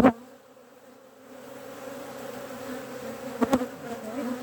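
Honeybees buzzing around an open hive, a steady hum that dips for a moment after a sharp knock at the start. A double knock comes about three and a half seconds in, as wooden hive frames are handled.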